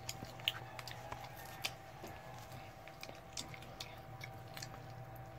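A child chewing and biting food, with faint irregular little clicks of mouth noise over a faint steady hum.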